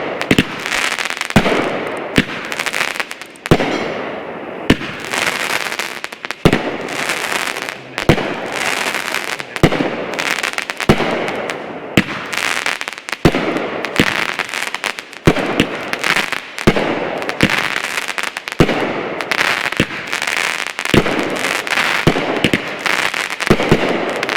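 Elite Fireworks Risin' Stallion 16-shot 200-gram consumer cake firing: shot after shot, a sharp report about every second and a half, with dense crackling from the crackle tails and breaks in between.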